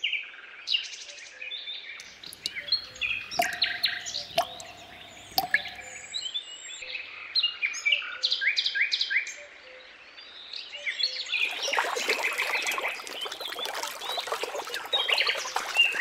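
Birds chirping and trilling, many short calls overlapping; about three-quarters of the way in the chirping turns into a denser, busier chorus.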